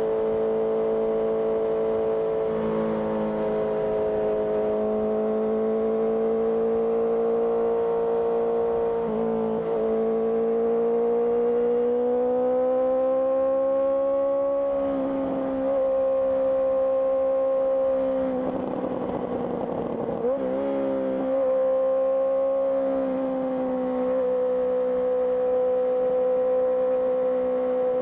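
Honda CBR650R's inline-four engine through an IXIL IXRACE aftermarket exhaust, running under way at fairly steady revs. The pitch climbs slowly through the middle, with a brief break about nine seconds in and a rougher, dipping stretch around nineteen to twenty-one seconds.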